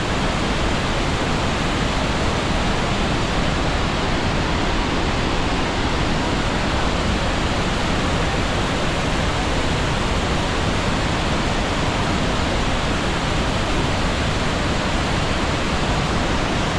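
Devil's Throat waterfall at Iguazú Falls: a huge volume of water plunging and crashing, heard as a loud, steady, unbroken roar.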